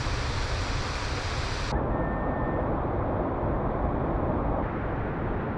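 Steady rushing noise of falling water, heavy rain and a waterfall, with a deep rumble; the high hiss drops away abruptly just under two seconds in.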